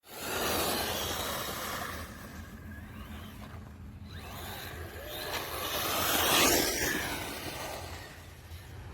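Evmore 1:16 4WD RC car with a brushless motor driving, its motor whine rising and falling in pitch over the rush of tyres on the ground. It gets louder to a peak about six and a half seconds in, then fades as it moves away.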